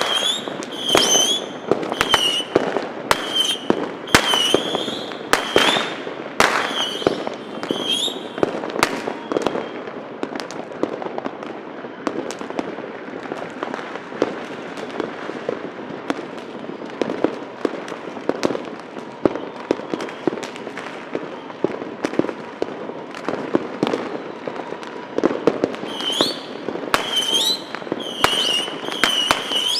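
Fireworks and firecrackers going off: a rapid run of sharp bangs, thinning in the middle to smaller scattered pops and crackles, then picking up into close bangs again near the end.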